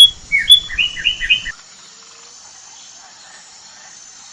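Northern cardinal singing: a quick series of clear, down-slurred whistled notes, about five a second, that stops about a second and a half in, leaving only faint background hiss.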